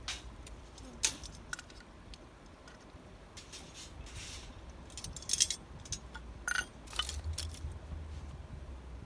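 Irregular sharp clicks and light clinks of small hard objects being handled, loudest in a quick cluster about five seconds in, over a low steady rumble.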